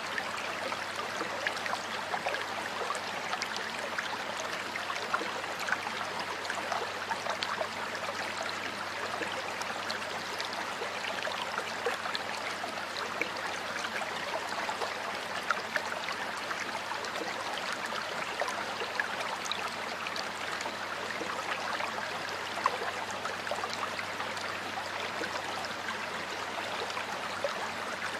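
Water flowing in a stream, a steady rush with many small splashes and trickles.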